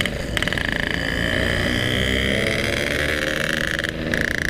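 Yamaha RX King two-stroke motorcycle engine running under throttle, a buzzing drone with a brief break about four seconds in.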